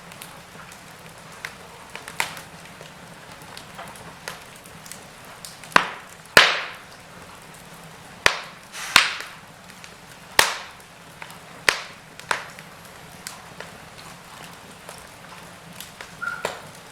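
Fireplace fire crackling: irregular sharp pops and snaps over a low, steady background, with a run of louder pops near the middle.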